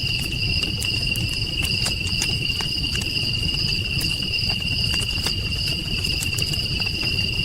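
Night chorus of crickets trilling steadily at two high pitches, over a low even rumble, with scattered sharp clicks.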